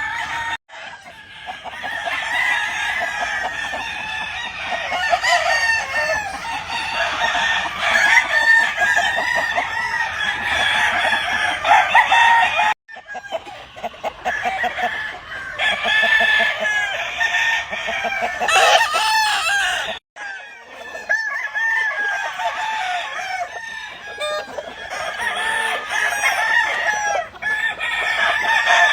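Many gamefowl chickens in a breeding yard crowing and clucking, their calls overlapping continuously, with brief sudden gaps about 13 and 20 seconds in.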